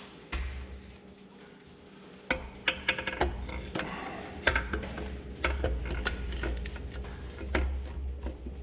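Metal engine parts and tools clinking and knocking irregularly while a piston assembly is worked into the engine block, starting about two seconds in.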